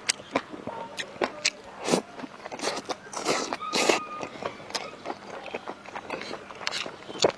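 Close-up eating sounds: sharp, irregular crunches and wet mouth smacks of food being bitten and chewed, with a longer noisy stretch about three to four seconds in.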